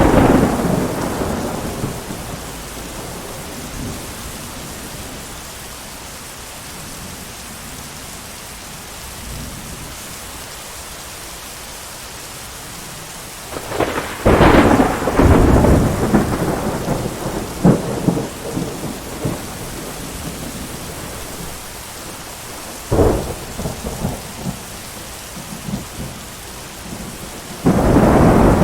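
Thunderstorm with steady heavy rain and repeated peals of thunder. One peal fades just after the start, a long rolling peal with sharp cracks comes about halfway through, a sharp crack and rumbling follow a few seconds later, and another peal comes near the end.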